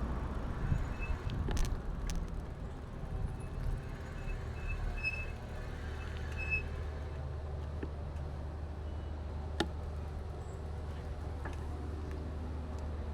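Street traffic noise heard from a bicycle: a vehicle's sound fades away early, then a steady low rumble continues with scattered clicks and rattles.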